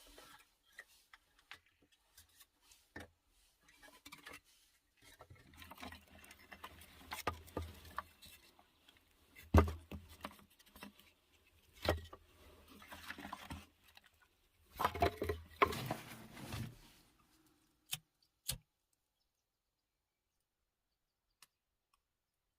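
Intermittent rustling and handling noises with scattered sharp knocks, the loudest knock about ten seconds in and a longer burst of rustling around fifteen seconds. The sound then cuts to dead silence for the last few seconds.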